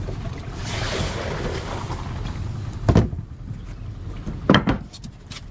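Small fishing boat at sea: a steady low engine drone, with a rushing hiss of water and wind for the first couple of seconds, and two sharp knocks on the boat, about three and four and a half seconds in.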